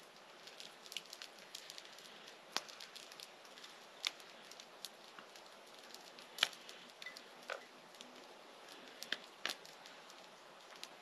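Campfire crackling: irregular sharp pops and cracks over a faint hiss, the loudest pop about six and a half seconds in.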